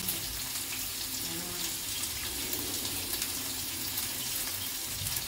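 Onions sizzling in oil in a wok while a tap runs into a kitchen sink: a steady hiss with fine crackles.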